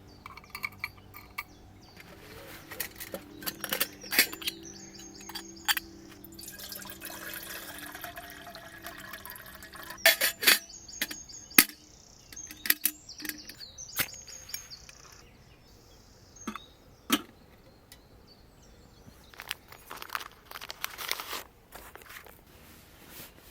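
Irregular knocks, clicks and rustles of things being handled, with a bird chirping in short bursts now and then, at a forest camp.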